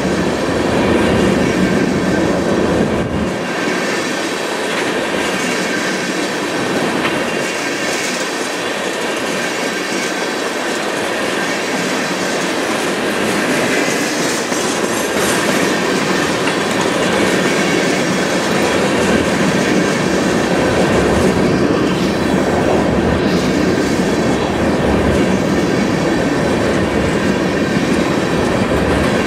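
Tank cars of a freight train rolling steadily across a steel trestle bridge: continuous noise of the wheels running over the rails.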